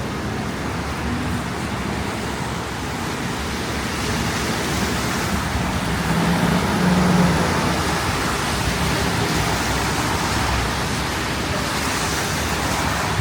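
Strong gusting wind roaring on the microphone in a snowstorm, a steady rushing noise, with city street traffic underneath. A vehicle's low engine hum stands out briefly around the middle.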